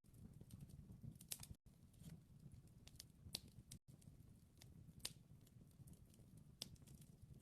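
Wood fire crackling faintly: scattered sharp pops and clicks, a few louder, over a low soft rumble.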